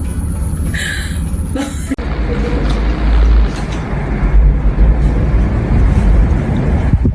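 A cat meows once. About two seconds in, a loud, steady low rumble takes over.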